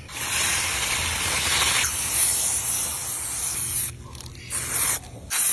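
Aerosol spray can hissing in one long spray of about four seconds, then two short bursts near the end.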